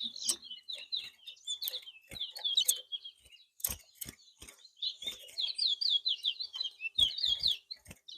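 A caged towa-towa (chestnut-bellied seed finch) singing repeated phrases of quick, high chirping notes, with brief pauses between phrases and scattered sharp clicks.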